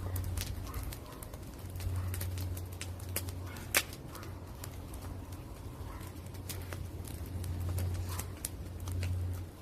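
Wood fire crackling with frequent sharp pops and one louder snap about four seconds in, over a low hum that swells and fades in stretches.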